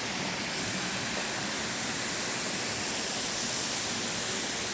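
Waterfall rushing: steady, even noise of falling water.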